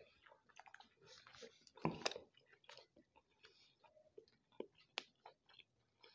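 A man chewing a mouthful of chicken close to the microphone: irregular small wet smacks and clicks, with sharper bites about two seconds in and again about five seconds in.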